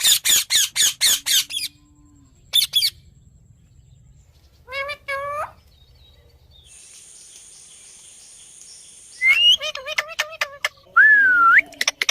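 Indian ringneck parakeet calling: a fast run of sharp, repeated screeches at the start, a few short warbled calls in the middle, then more quick calls and a whistle that dips and rises near the end. A steady high hiss runs for a couple of seconds midway.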